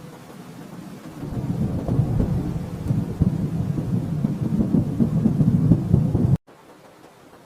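Thunder rumbling low and crackling, building about a second in and cutting off abruptly near the end, leaving a faint steady hiss.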